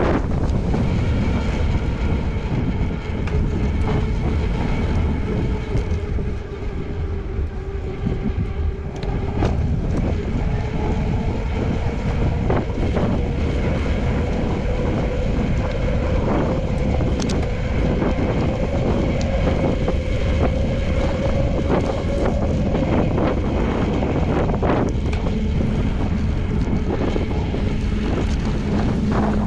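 Wind buffeting the microphone of a camera on a moving bicycle, a steady low rumble with a faint hum underneath that dips slightly in pitch and rises again.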